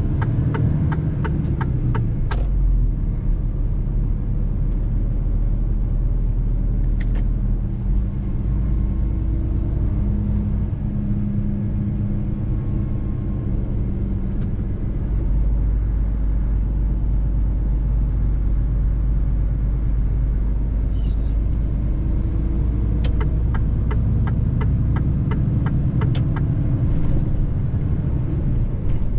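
Mercedes-Benz truck driving on the road: a steady low engine and road rumble. Runs of rapid light clicks come near the start and again in the last several seconds.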